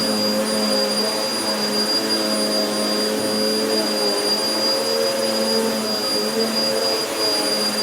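Vacuum cleaner running steadily on carpet, a continuous motor hum with a high, steady whine; its lower tones waver slightly.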